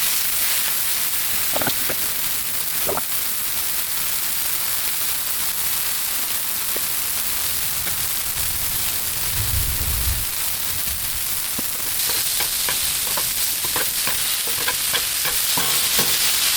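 Sausage sizzling on a Blackstone flat-top griddle, a steady hiss of frying fat with scattered sharp pops of spatter that come thicker in the last few seconds. There is a brief low rumble about two-thirds of the way in.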